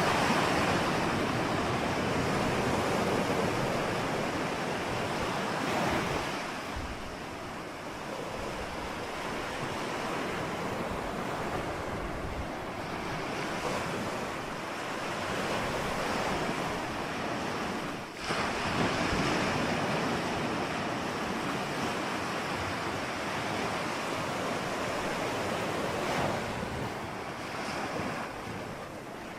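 Ocean surf: a continuous wash of breaking waves that swells louder and eases off irregularly, with a brief dip in the middle.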